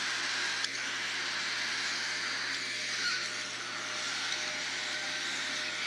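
Steady hiss of room noise with a low hum, one sharp click about half a second in, and a few faint, short high chirps from young cockatiels.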